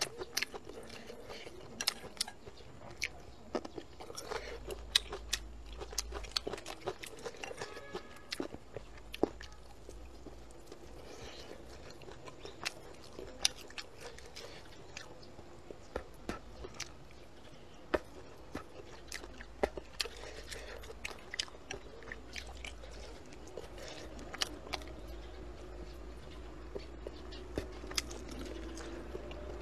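A person chewing and biting food close to a clip-on microphone, with many sharp, irregular crunches and clicks.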